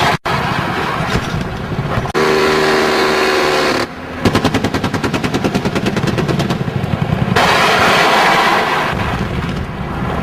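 Automatic weapon fire in long bursts of rapid, evenly spaced shots, broken by abrupt cuts. For a couple of seconds early on, a steady hum takes the place of the shots.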